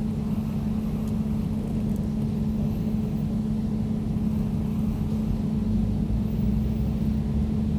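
Air conditioner running steadily: a low, even hum with a rumble beneath it.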